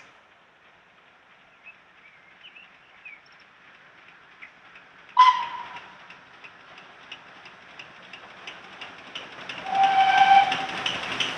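Steam train approaching on a preserved railway. A sudden loud burst with a brief ringing tone comes about five seconds in, then a hiss and regular beats grow louder. The steam whistle sounds for about a second near the end.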